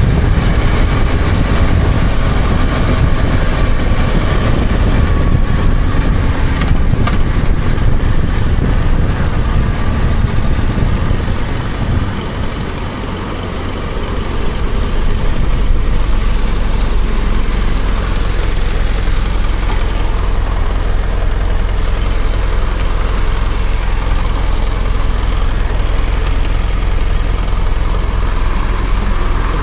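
BMW F800GS parallel-twin engine under way, with rushing riding noise, easing off about twelve seconds in; from about sixteen seconds on the engine idles with a steady low hum.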